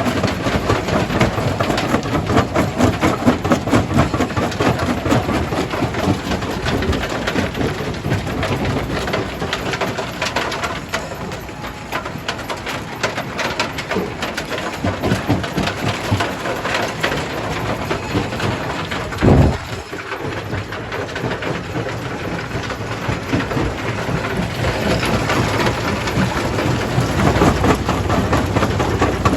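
Jaw crusher breaking rock: a continuous dense clatter and cracking of stones, with one heavy thud about two-thirds of the way through. A low machine rumble grows louder near the end.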